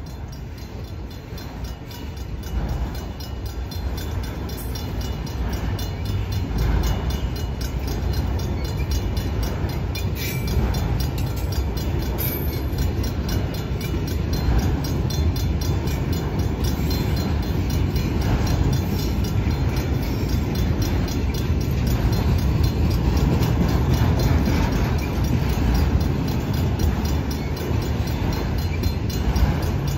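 Autorack freight cars rolling slowly past at a grade crossing: a steady rumble of wheels on the rails with faint repeated clacks. It grows louder over the first few seconds and then holds steady.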